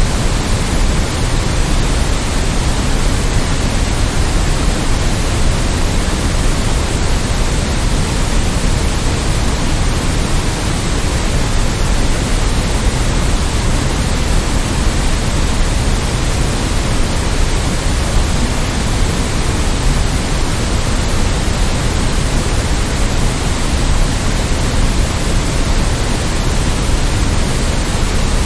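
Steady synthetic white noise: an even, unchanging hiss, fuller in the low end.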